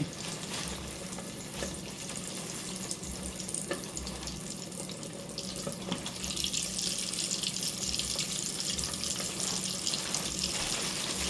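Chicken wings frying in hot grease: a steady sizzle that grows louder and brighter about six seconds in.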